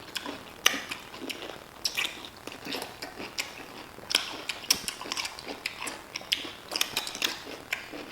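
Pickles being bitten and chewed fast, an irregular run of sharp, wet crunches and clicks.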